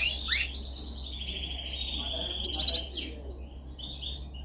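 Domestic canary singing: two quick rising whistles, then a long rolling trill, with a louder run of rapid higher notes about two and a half seconds in.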